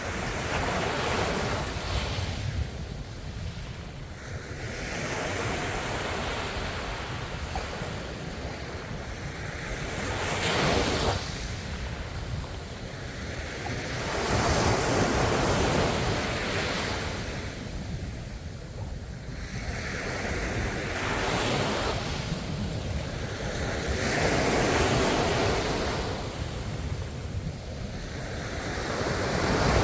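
Ocean waves breaking and washing in, a new surge swelling up and fading away every four to five seconds.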